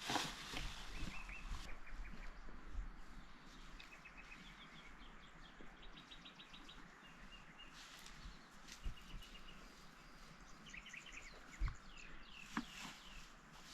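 Small birds chirping in quick repeated series of high notes over a faint outdoor hiss, with a few scattered knocks, one sharp one near the end.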